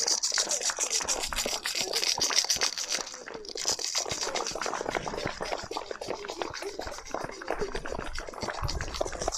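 Neighbours clapping and rattling noisemakers in a street: a dense, irregular patter of hand claps and shaken rattles, dipping briefly about three seconds in.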